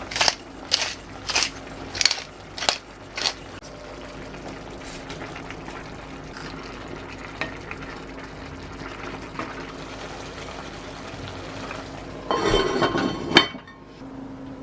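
Kitchen cooking sounds: six sharp knocks in a steady rhythm about two-thirds of a second apart, then a steady hiss of food cooking in a pan with faint clicks. Near the end comes a loud rushing burst lasting about a second, cut off by a sharp clack.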